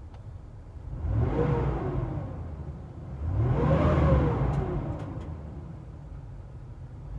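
Vehicle engine revved twice, each rev carrying a whine that rises and falls in pitch with the engine speed. This is an unidentified noise that two replacement fan clutches have not cured.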